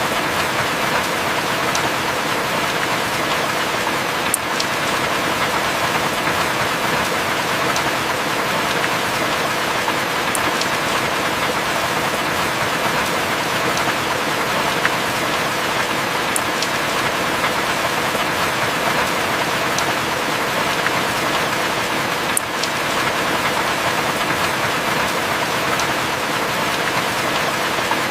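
Heavy rain falling steadily, with a few sharp drop ticks standing out here and there.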